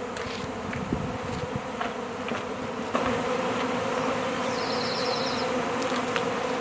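A swarm of honey bees buzzing, a dense steady drone that gets louder about three seconds in.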